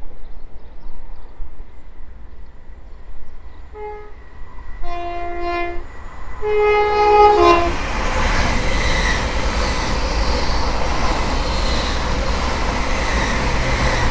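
An LNER Azuma high-speed train sounds its horn in three short blasts. The last blast drops in pitch. About halfway through, the train passes close by at speed with a loud, steady rush of wheels on rail and air.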